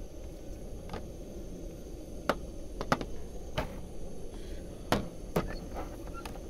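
A metal mess tin and its lid being handled and set down on a table: a series of about seven sharp clicks and knocks, with a double knock about three seconds in.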